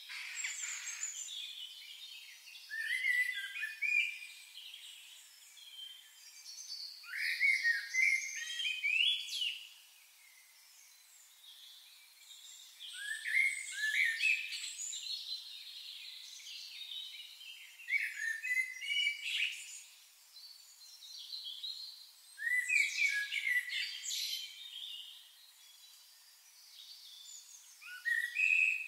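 Songbirds singing: clusters of quick chirping song phrases come every four to six seconds, with quieter twittering between them.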